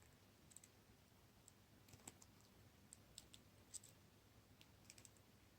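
A dozen or so faint, irregular little clicks of round-nose jewelry pliers and a metal head pin as a wire loop is bent.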